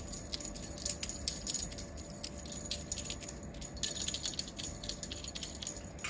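Small jingle bell on a cat's play toy jingling in quick, irregular shakes as the cat bats and pulls at it.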